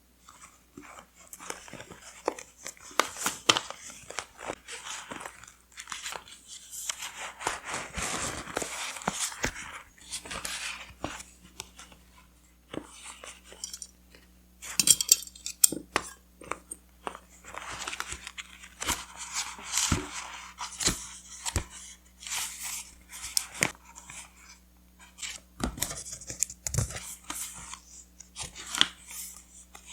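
Paper handled close to the microphone: rustling, crinkling and tearing, with many sharp taps and clicks in between.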